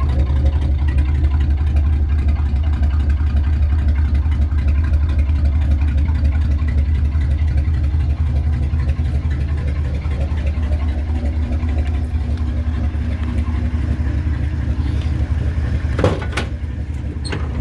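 1966 Ford Thunderbird's 428 cubic inch V8 idling on a cold start, a steady deep exhaust rumble that sounds like a boat through mufflers that need replacing. A couple of sharp clicks near the end.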